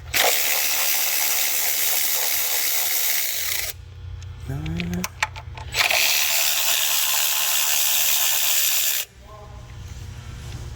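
Two long hissing blasts of a compressed-air blow gun, each about three seconds long, with a short rising squeak between them.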